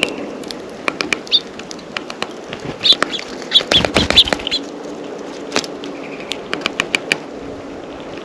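Small songbirds at a feeder: wing flutters and sharp taps of birds landing and pecking, with short high chip calls. It is busiest in the middle.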